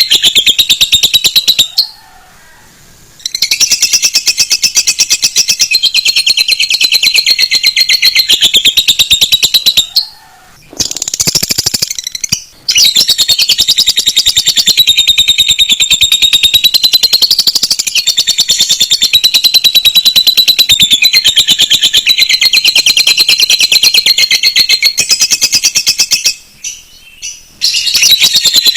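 Fast, continuous high-pitched trilling and chattering of canary and lovebird song, a tutoring song mix for magpie-robins. It breaks off briefly about two seconds in, about ten seconds in, and again near the end.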